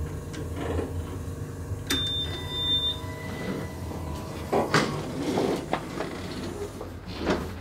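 Steady low rumble of a moving double-decker passenger train heard from inside the car, with a sharp click about two seconds in followed by a thin high tone lasting about a second, and a louder rush of noise around five seconds in.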